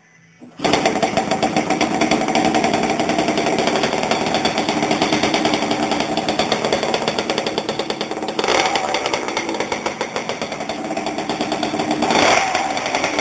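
Pocket bike's small two-stroke engine running loud and buzzy, coming in abruptly about half a second in, with two short throttle blips, one about two-thirds of the way in and one near the end.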